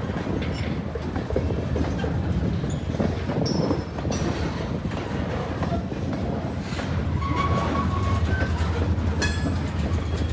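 Freight train rolling past, its cars rumbling and clicking over the rail joints, with a few brief high squeals from the wheels.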